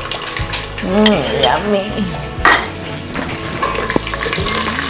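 Green curry paste and garlic sizzling as they fry in a stainless steel pot while a spatula stirs and scrapes. A sharp clink of utensil on metal about halfway through, and a lighter one near the end.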